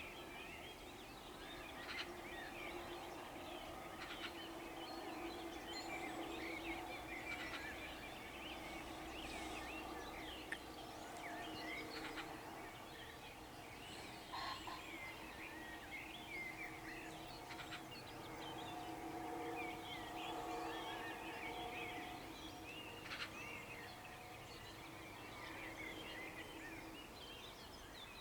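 Dawn chorus of many songbirds chirping and trilling over the meadow, with a common pheasant crowing among them in short harsh calls. A faint steady drone runs underneath.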